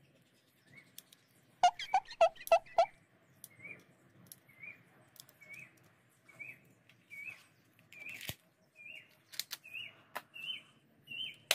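A bird calling a short rising chirp over and over, about twice a second, with a louder run of five calls about two seconds in. A few sharp clicks come later, and a single sharp snap at the very end as the BB pistol fires.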